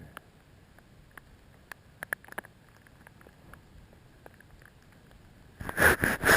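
Freezing rain ticking on clothing and the microphone in scattered light taps. A loud burst of rustling noise comes near the end.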